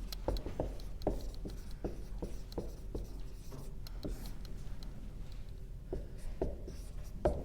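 Writing on a board by hand: a run of short, irregular strokes, a few a second.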